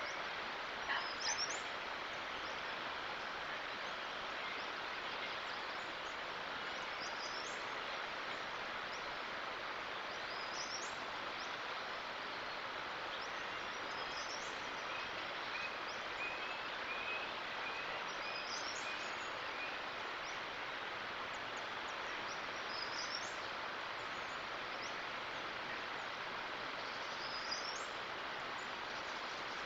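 Steady outdoor background hiss, with a bird repeating a short, high, rising chirp about every three to four seconds. Midway through, a run of quick lower notes comes in. No eruption rumble is heard.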